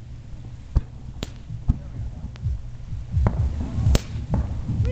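Distant aerial fireworks shells bursting: a run of about seven sharp bangs at uneven intervals, over a steady low rumble.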